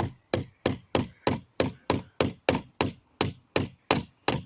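Hammer blows on a wooden pallet plank, about three even strikes a second, knocking nails out of the plank to denail it.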